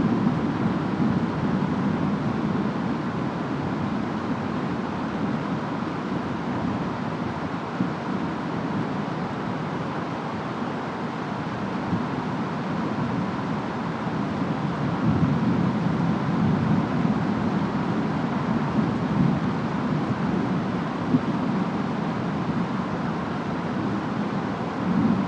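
Steady rainstorm with wind, an even hiss of rain under a low rumble that swells and fades a few times, most strongly a little past the middle and near the end.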